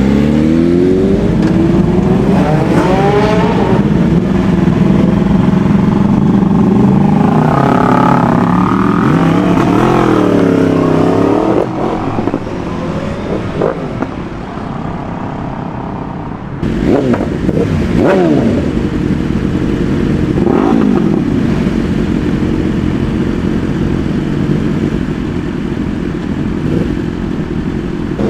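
Several motorcycle engines revving and accelerating past in traffic, their overlapping notes rising and falling in pitch. The noise eases off for a few seconds past the middle, then comes back suddenly with a few quick rising passes.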